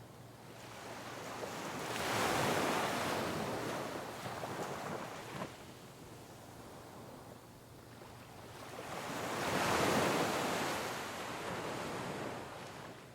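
Sea waves breaking on rocks, twice: each wave swells up, crashes, and drains away in a long hiss, the first about two seconds in and the second near ten seconds.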